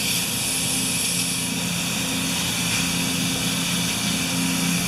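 DeWalt 4-gallon air compressor running steadily, a constant motor hum under a hiss of air.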